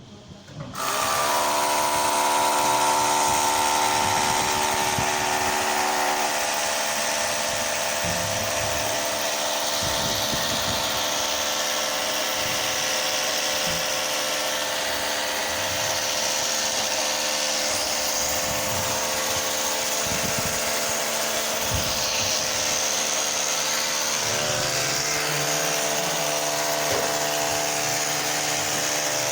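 An electric power tool starting up about a second in and then running steadily without a break, a continuous motor whine with an even hum underneath.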